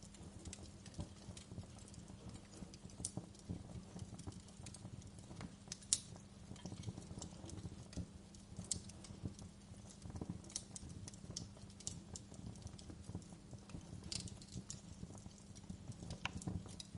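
Fireplace crackling: a steady bed of small crackles with scattered sharp pops, the loudest single pop about six seconds in.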